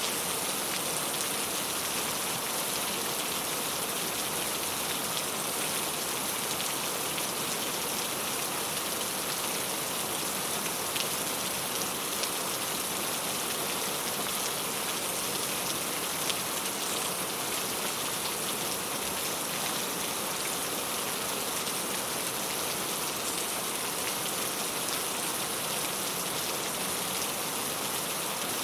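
Steady rain falling on a clay tile roof, an even patter with a few louder single drops.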